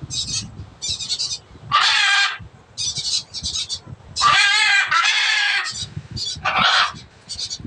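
Blue-and-gold macaw squawking: three loud, harsh screeching calls, the middle one longest at over a second, with shorter, quieter high chatter between them.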